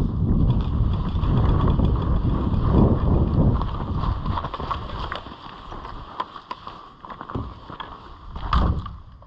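Rumbling wind and movement noise on a body-worn camera microphone during the first half, then quieter with scattered light clicks and a single loud thump near the end.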